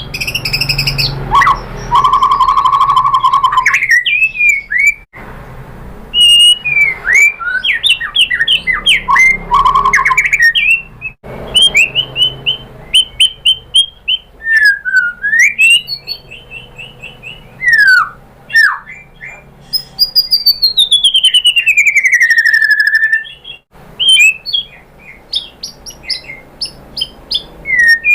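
White-rumped shama (murai batu) singing a loud, varied song of clear whistles, quick rising and falling notes and rapid rattling trills, with one long whistle sliding downward late on.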